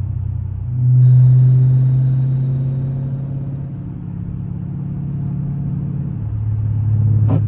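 Dodge Scat Pack's 392 HEMI V8 running under way, a steady drone that swells about a second in, then eases and settles to a lower pitch near the end.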